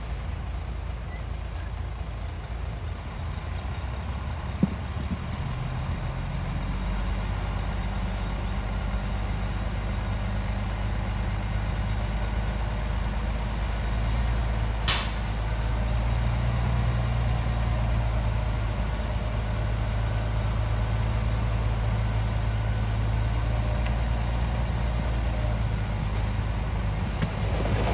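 Heavy diesel engine of earthmoving machinery running with a steady low drone that slowly grows louder, with a brief sharp hiss about halfway through.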